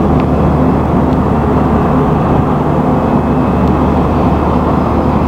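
Motorway traffic running as a steady, swishing noise.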